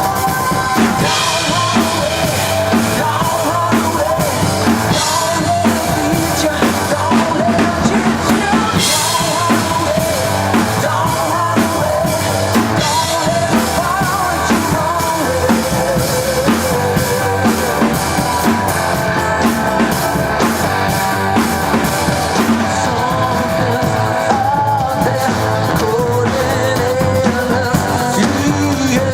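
Rock song with a full drum kit and bass under a wavering melody line, played steadily at full level.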